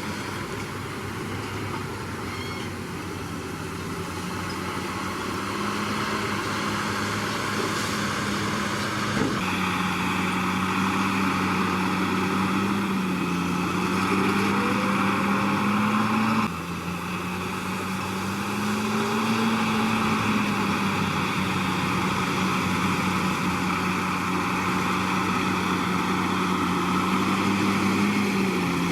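Komatsu D61PX bulldozer's diesel engine running steadily under work, its pitch slowly rising and falling with the load. The sound shifts abruptly twice, about a third and a little over halfway through.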